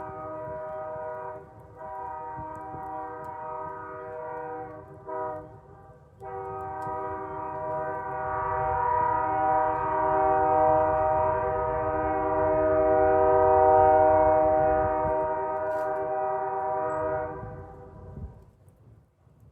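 Train horn sounding a chord of several tones, in a long, long, short, long sequence, the grade-crossing signal, with the last blast held about eleven seconds before it fades away. Under it is the low rumble of the passing train.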